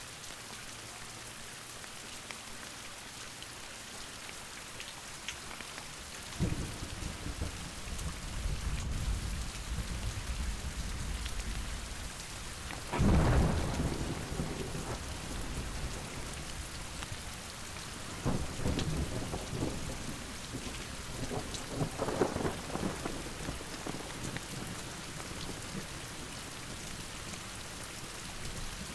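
Heavy rain falling steadily, with thunder: a low rumble starts about six seconds in, a loud thunderclap comes near the middle, and two more rolls of thunder follow later.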